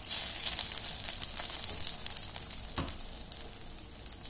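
Semolina cheela batter sizzling in ghee on a hot non-stick tawa, a steady frying hiss, with a few light strokes of a silicone spatula as the ghee is spread over the top.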